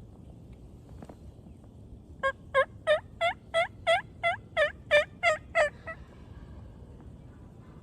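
A string of about eleven turkey yelps, about three a second, each note breaking and swinging in pitch, running for nearly four seconds starting about two seconds in.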